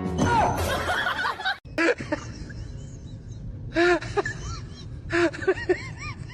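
A person laughing in three short bursts of quick, pitched notes over steady background noise, after about a second and a half of busy, noisy sound that cuts off abruptly.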